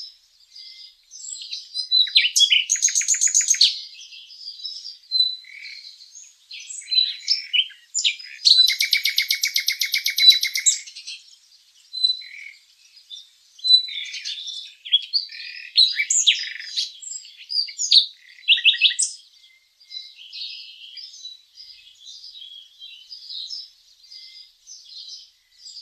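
Small songbirds chirping and calling, with many short high chirps. A rapid buzzy trill comes about two seconds in, and a longer one about eight seconds in.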